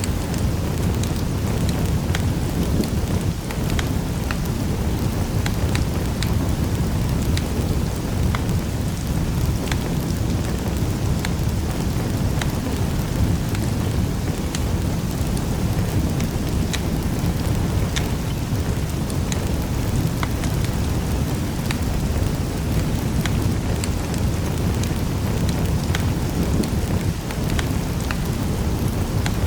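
Wood fire crackling: a steady low rush of flame with frequent irregular sharp pops and snaps.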